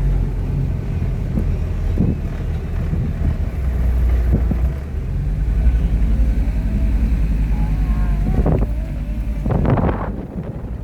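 Car driving: a steady low rumble of road and engine noise, with some wind on the microphone and a few short louder bursts near the end.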